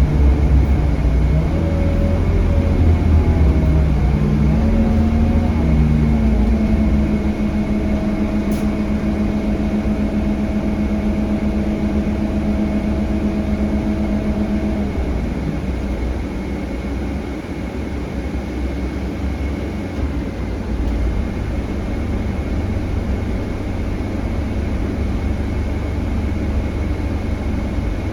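Scania K320HB bus under way, heard from inside: the low rumble of its Scania DC9 diesel engine and driveline. A pitched drone rises about four seconds in, holds steady and stops about halfway through. A faint steady high whine runs underneath.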